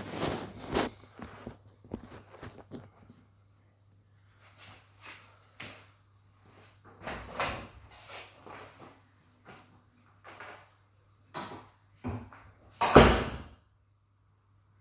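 Clicks, knocks and rattles of a dishwasher's door, racks or detergent dispenser being handled, with one loud clunk near the end.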